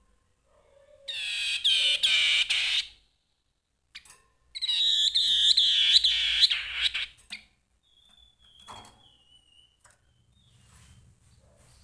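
Grey-headed babbler singing: two loud bursts of rapid, repeated high notes, each two to three seconds long, with a short pause between them, then a faint thin whistle.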